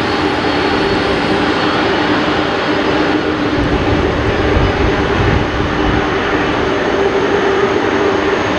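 Boeing 747-400 with Pratt & Whitney PW4056 turbofans running at takeoff power: a steady, loud jet roar with a few steady humming tones through it, and a deeper rumble swelling around the middle.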